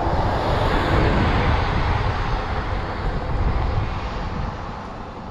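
A car passing the bicycle, its tyre and engine noise loudest about a second in and then slowly fading away.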